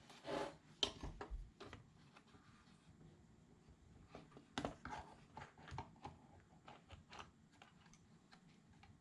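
Faint, scattered light clicks and taps of small pry bars working at the gauge needles of a car instrument cluster, coming more often from about four seconds in.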